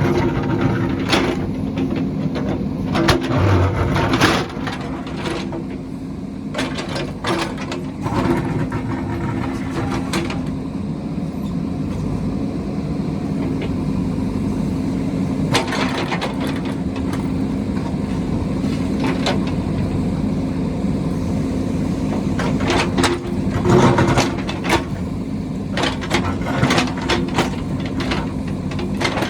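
Engine of a heavy construction machine running steadily under work, with repeated sharp knocks and clanks coming in clusters over it.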